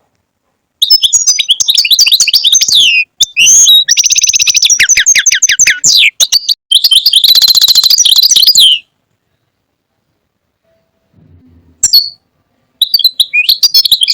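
European goldfinch singing: three long bursts of rapid, high twittering, the middle one holding a fast buzzy trill, then a pause of a couple of seconds and a few short chirps near the end.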